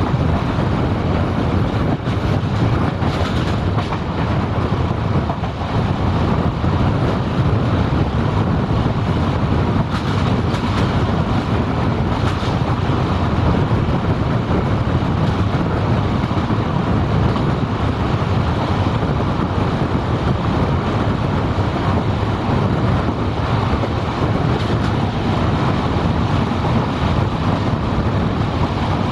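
Diesel-hauled passenger train coaches running at speed, heard at an open coach window: a steady rumble of wheels on the rails, with rushing air.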